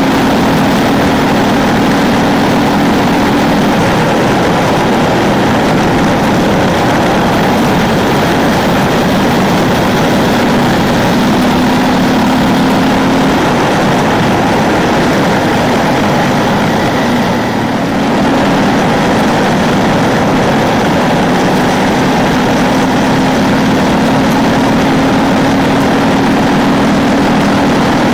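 Ducati 999's L-twin engine running under way at road speed, under a steady rush of noise. Its pitch drifts up and down with the throttle, with one brief drop about two-thirds of the way through.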